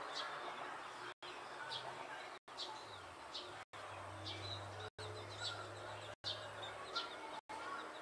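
Birds chirping: short high calls, about one or two a second, over a faint low hum. The sound cuts out briefly about every second and a quarter.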